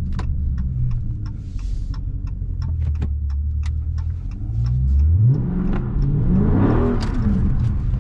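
Dodge Charger Scat Pack's 392 (6.4-litre) HEMI V8 rumbling at low revs, then revving up hard about five seconds in and dropping back near the end, as the car is pushed into a corner to slide it.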